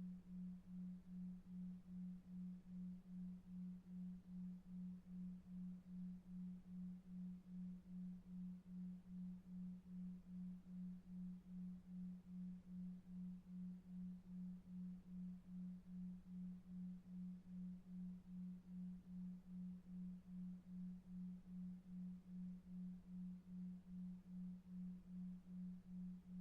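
A low, pure, hum-like tone that pulses evenly about two and a half times a second: a 2.5 Hz 'delta wave' pulsed tone made to lull a child to sleep.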